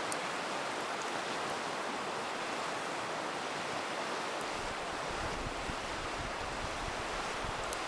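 Steady rushing of a river, with a few faint pops from a crackling campfire. A low rumble joins about halfway through.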